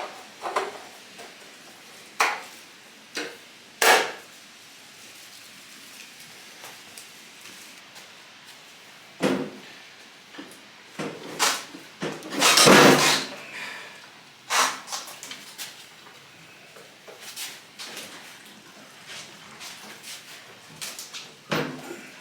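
Irregular knocks and clunks of hard objects being handled, about a dozen spread out, with a longer clattering noise lasting about a second roughly halfway through.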